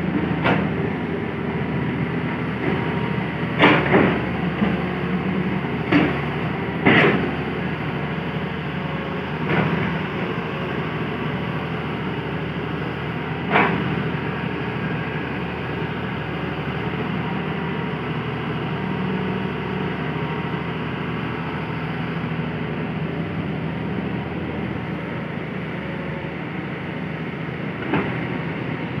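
Hitachi hydraulic excavator's diesel engine running steadily under load, with a string of short, sharp knocks, the loudest clustered in the first half and one more near the end.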